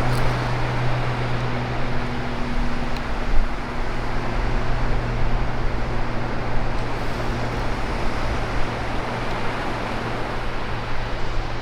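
A car engine running steadily with a low hum, under a constant rushing noise.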